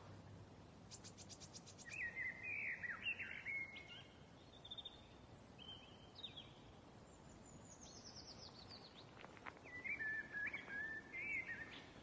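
Small songbirds chirping and singing in short whistled phrases over faint outdoor background noise. There is a quick rattle of clicks about a second in and a rapid falling series of notes past the middle.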